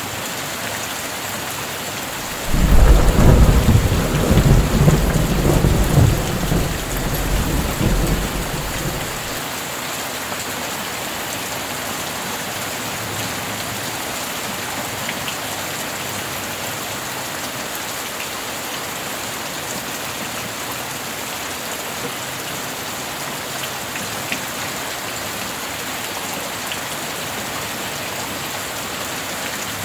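Steady rain falling throughout. About two and a half seconds in, a loud clap of thunder breaks in, rolls on for about six seconds and fades away.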